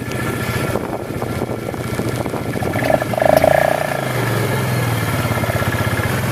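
A vehicle engine running steadily at low revs, with a short, louder higher-pitched tone about three seconds in.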